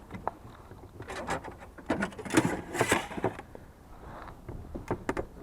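Irregular knocks, clicks and scuffs of a caught fish being handled and unhooked on a fishing boat.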